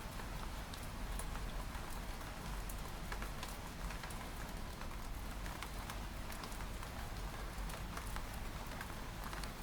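Steady rain on a window pane, with individual drops tapping on the glass now and then, over a low steady rumble.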